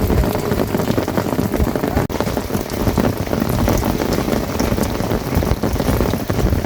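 Heavy rain falling steadily, a dense patter of drops, with a momentary break in the sound about two seconds in.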